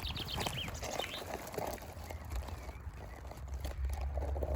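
A small songbird sings a fast trill of rapid, slightly falling notes in the first second. Under it and afterwards runs a steady crackling and rustling of twigs and branches, as of someone pushing out through gorse.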